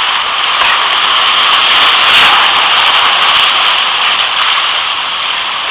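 Whitewater of the Durance rushing loudly around the kayak, a steady hiss that swells about two seconds in.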